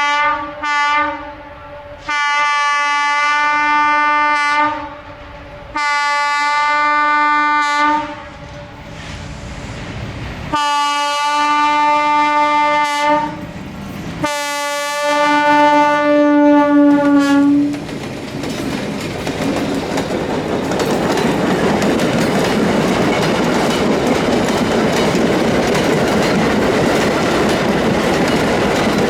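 Train horn sounding two short blasts and then four long blasts of a few seconds each, followed by the train running past with a loud steady rumble and wheels clicking over the rail joints.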